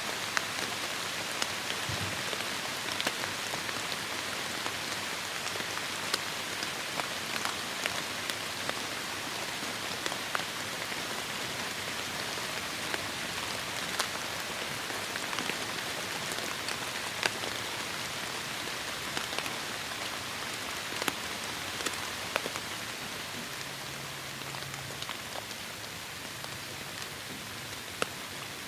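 Heavy rain falling steadily, a dense even patter with scattered louder individual drop hits.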